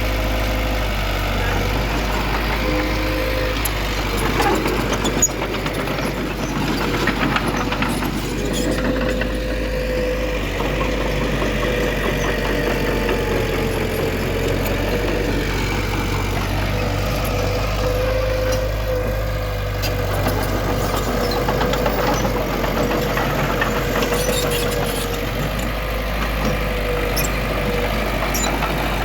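Diesel engine of heavy earthmoving machinery running steadily, with a constant whine and a few metallic clanks.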